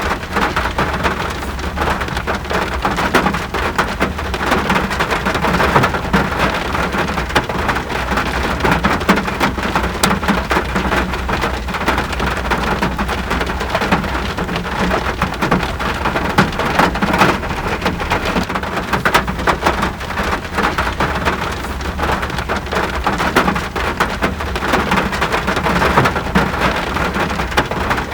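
Steady, heavy rain: a dense patter of drops with a constant low rumble underneath.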